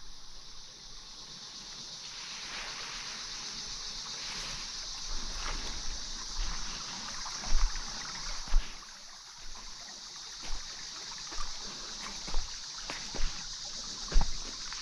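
Footsteps on a forest trail at a walking pace, thudding about once a second through the second half, over a steady high hiss of outdoor ambience with a trickle of running water.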